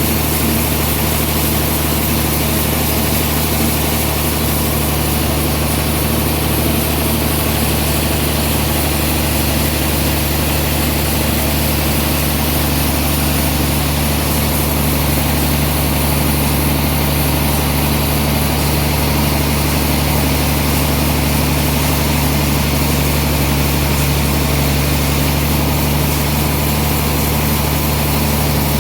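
Sawmill engine running steadily at an even speed with a low hum, with no change in load.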